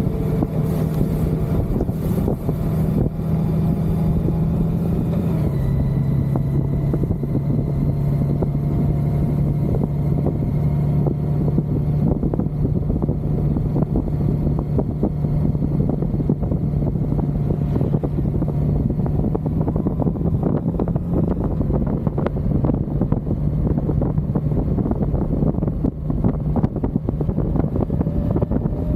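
Motorcycle engine running steadily at cruising speed with heavy wind noise on the microphone; the engine note drops slightly about five seconds in.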